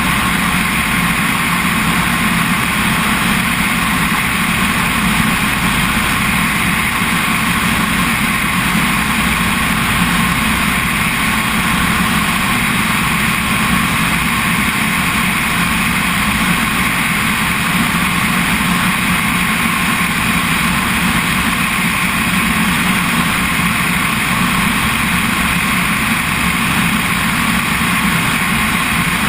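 Helicopter in flight, its engine and rotor noise steady and unchanging throughout.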